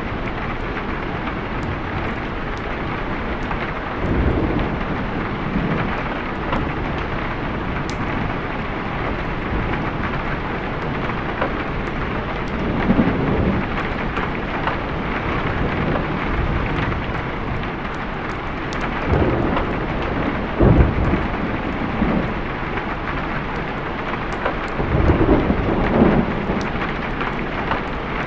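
Steady rain with thunder rumbling several times, each roll swelling and fading over a few seconds.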